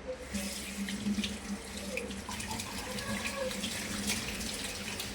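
Tap water running into a sink, starting about a third of a second in, with small clinks of dishes being washed.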